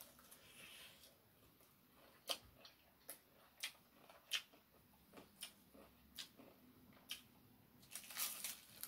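Close-up eating sounds of crispy fried chicken: quiet, irregularly spaced mouth clicks and crunches of chewing, with a denser crunchy bite into the breaded skin about eight seconds in.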